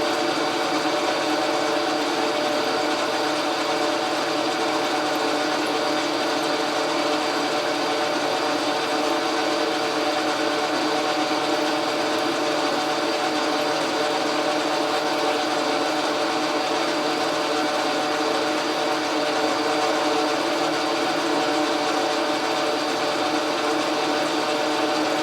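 Logan metal lathe running steadily under power, its motor and gearing giving a constant hum with several steady tones, while it turns a cut in metal.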